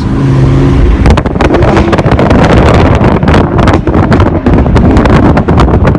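Audi RS3 8V's decatted turbocharged five-cylinder engine running with a rapid, irregular string of exhaust pops and crackles, starting about a second in.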